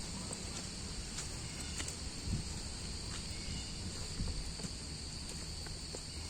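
Steady, high-pitched chorus of insects such as crickets, with footsteps on a woodland trail underneath.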